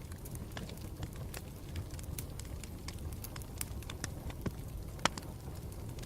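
Campfire burning with a steady low rumble and scattered sharp crackles and pops from the burning wood, one louder pop about five seconds in.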